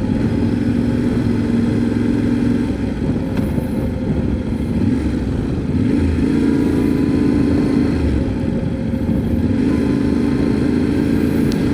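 Motorcycle engine running steadily at cruising speed, with road and wind noise. The engine note eases a little about three seconds in and picks up again about six seconds in.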